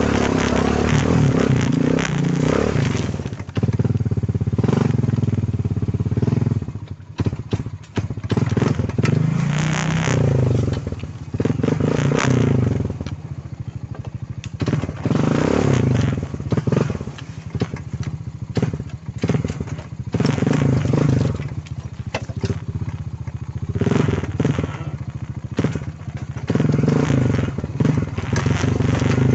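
Quad bike (ATV) engine under way, its pitch rising and falling again and again as the throttle is opened and eased off, with many short knocks and crackles throughout.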